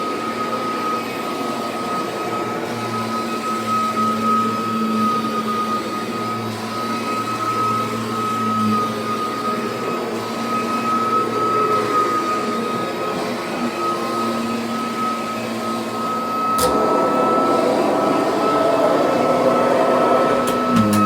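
Kirby Sentria upright vacuum fitted with the old six-vane fan, running while vacuuming: a steady high fan whine over a lower motor hum. About 17 s in there is a sharp click, then the running sound grows fuller and a little louder.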